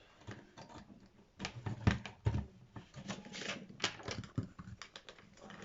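Irregular clicks, taps and light knocks of small tools and parts being handled and set down on a work table, with a few duller thumps. The sharpest clicks come about two seconds in and just before four seconds in.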